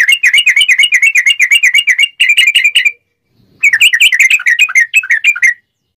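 Yellow-vented bulbul (trucuk) singing its rapid 'ngobra' chatter: a fast run of clear, sharp chirped notes, about eight a second, broken by a short pause about three seconds in. It stops shortly before the end.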